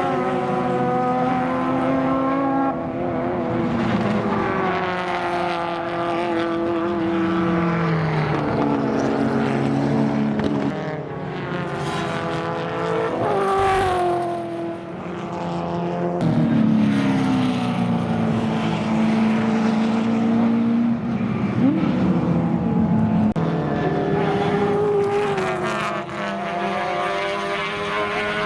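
Racing sedan engines at full noise, several cars revving up and down through gear changes as they pass, with the pitch falling sharply as they go by.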